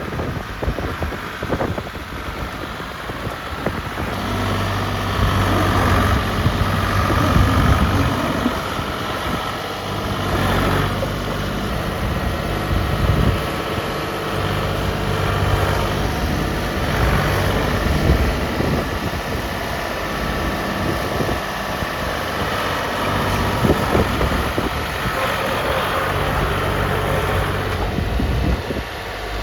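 Farm tractor engine running, its note changing as it works and getting heavier from about four seconds in.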